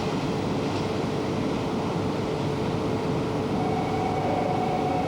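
Electric commuter train running at a station, a steady rumble with a low hum. A higher steady tone joins about three and a half seconds in.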